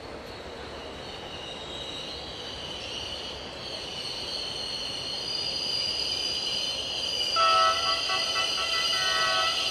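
Train wheels squealing on a curve, several steady high tones growing louder as the train of Class 5E1 electric locomotives and coaches draws slowly nearer. About seven seconds in the locomotive horn sounds, the loudest thing, and keeps going for about two seconds over the squeal.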